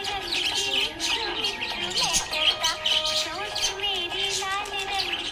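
Budgerigars chirping and warbling in quick, rapid notes over background music with a held, wavering melody.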